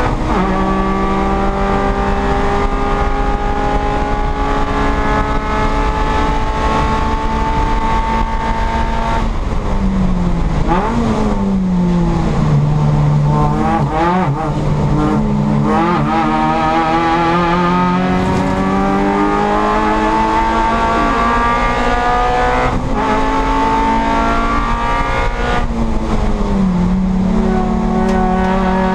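Toyota Yaris race car's four-cylinder engine heard from inside the stripped cabin, running hard with its pitch slowly climbing. About nine seconds in, the pitch falls as the car slows for a corner. It then climbs again under acceleration and holds high, with a brief dip near the end.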